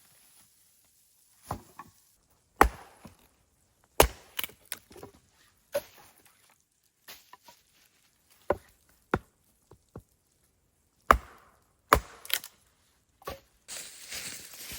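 Axe chopping wood: about a dozen sharp, irregularly spaced strikes into timber, followed near the end by rustling.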